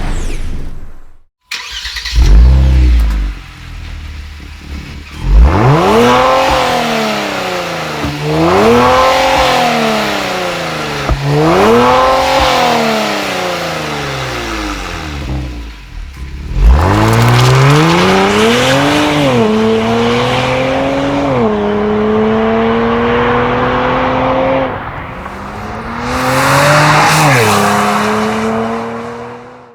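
Kia Stinger 3.3-litre twin-turbo V6 through a Borla S-Type cat-back exhaust: it fires up with a loud flare and settles to idle, is revved three times, then accelerates hard through several gear changes in two runs.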